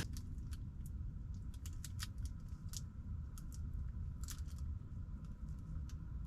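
Scattered small sharp clicks and snaps, irregularly spaced, over a low steady rumble, while the wood stove's fire is being started.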